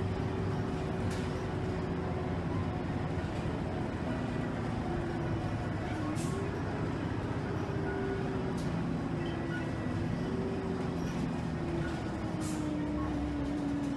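Motor coach heard from inside the cabin while under way: engine and drivetrain running steadily, with a whine that wavers and dips in pitch. A few sharp rattles or clicks come through.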